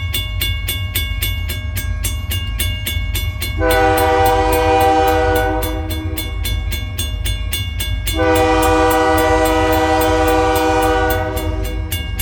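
Diesel locomotive horn sounding two long blasts, each a chord of several notes, over the deep steady rumble of EMD SD40-2 diesel engines. A bell rings rapidly and steadily throughout.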